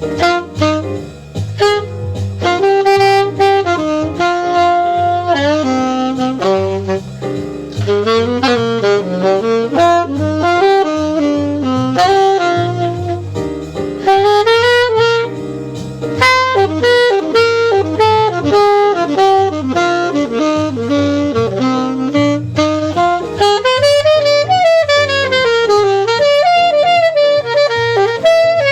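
Saxophone playing a jazz standard, a melody full of quick runs of notes, over a stepping bass line and light drums.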